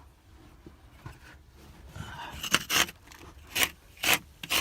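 Scraping and rubbing from someone moving about in a dirt tunnel under a house: quiet at first, then from about halfway a run of short, sharp scrapes, one every half second to second.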